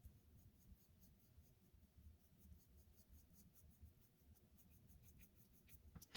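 Faint scratching of an oil pastel on paper, laid down in many short, quick strokes.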